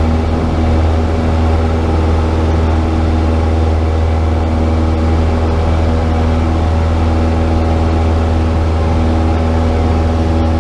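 Cessna 172's piston engine and propeller running steadily, a loud, even drone with a strong low hum.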